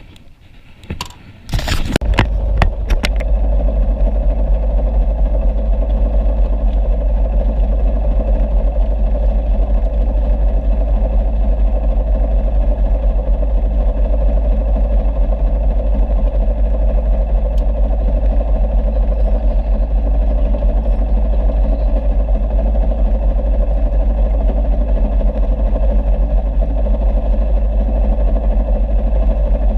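A boat's engine starting after a few knocks and then running steadily at a constant speed, with a heavy low rumble.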